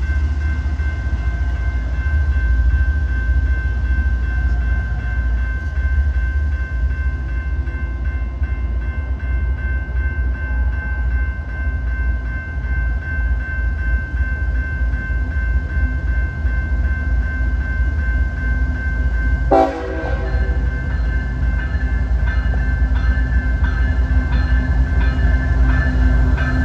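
CSX diesel locomotives 1902 and 983 working a train: a steady heavy rumble with a constant high whine over it. The sound changes abruptly about twenty seconds in.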